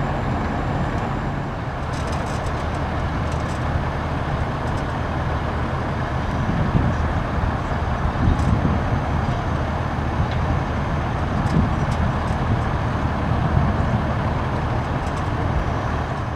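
Large truck engines idling steadily in a low, even rumble, with a few faint clicks over it.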